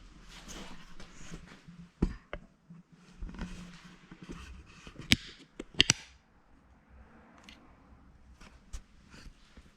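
Handling noise: scattered sharp clicks and knocks with rustling between them, the loudest a quick cluster of clicks about five to six seconds in.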